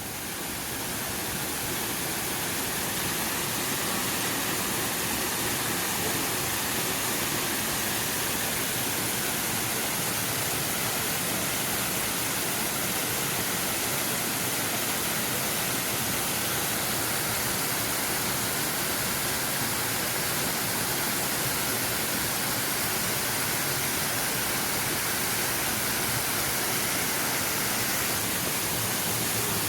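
Steady rushing of falling water from Sgwd yr Eira, the waterfall on the Afon Hepste that the path runs behind.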